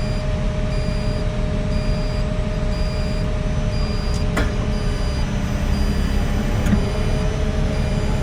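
Heavy construction machine's engine running steadily with a deep rumble, with two sharp knocks in the second half.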